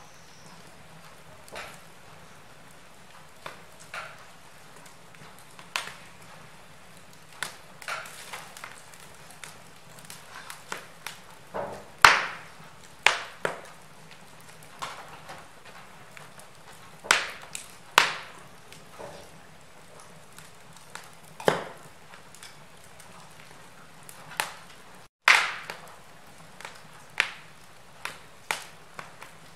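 Wood fire burning in a fireplace: irregular sharp crackles and pops over a faint steady hiss, the loudest pops about twelve, eighteen and twenty-five seconds in.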